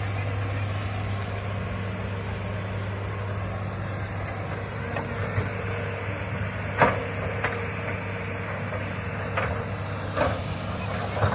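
Hitachi excavator's diesel engine running steadily, with a series of sharp knocks in the second half, the loudest about seven seconds in.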